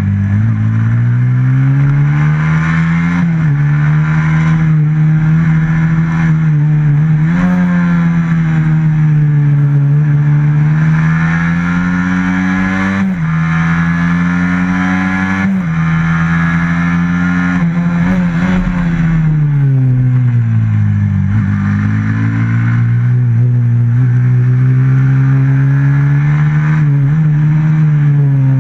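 Onboard sound of a race motorcycle's stock FXR150 engine, revving up and down around a tight track. The pitch climbs and falls again and again, with several sudden steps, and drops to its lowest about two-thirds through before climbing again.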